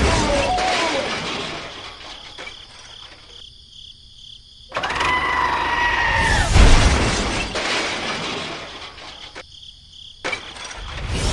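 Loud crashing impacts about every five seconds. Each starts suddenly with a deep boom and dies away over a few seconds. The middle one carries a steady high squeal.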